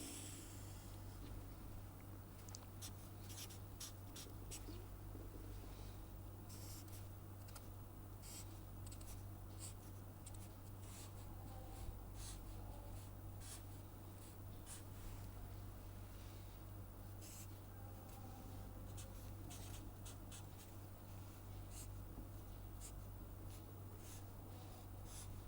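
Pen writing and sketching by hand: many short, scratchy strokes at an irregular pace, over a faint steady low electrical hum.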